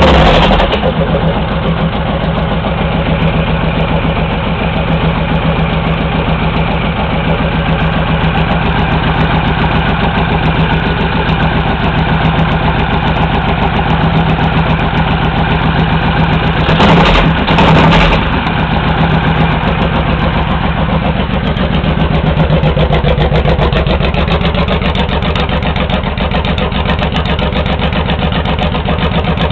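Honda VTX1800 V-twin running at idle through 3-inch Hard Krome straight pipes, a steady, evenly pulsing exhaust. There are two brief louder bursts a little past halfway.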